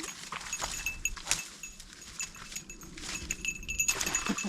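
Light, irregular jingling of a dog's collar as the dog moves about, with a brief whine from the dog near the end.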